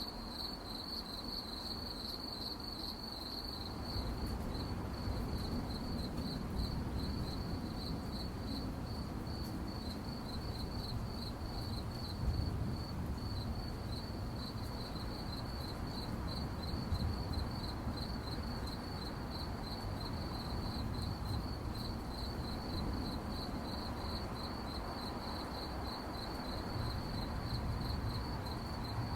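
Crickets chirping at night in a steady, high-pitched chorus of rapid, evenly spaced pulses, with a low steady rumble underneath.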